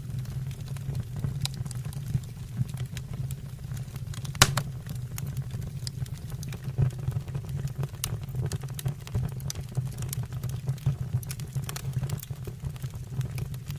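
Wood fire burning in a fireplace: scattered crackles and pops over a steady low hum, with one sharp loud pop about four and a half seconds in.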